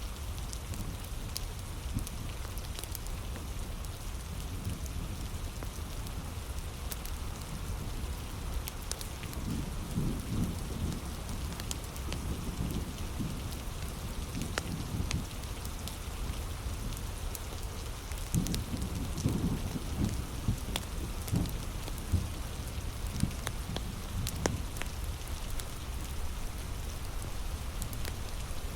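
Heavy rain falling steadily, with scattered sharp crackles and pops from a wood fire. Low rumbles swell up about ten seconds in and again around eighteen to twenty-two seconds in.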